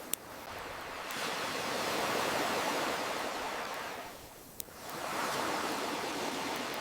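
Ocean waves washing in and drawing back: a swell builds about a second in and ebbs around four seconds, then the next one rolls in. Sharp single pops of a crackling campfire sound over it, one at the start and one about four and a half seconds in.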